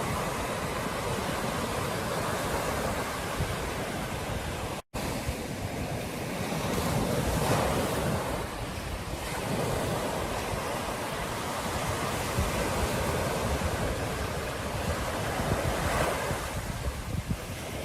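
Ocean surf washing onto a beach, a steady rush of breaking waves with wind buffeting the microphone. The surf swells louder a few seconds in and again near the end. The sound cuts out for an instant about five seconds in.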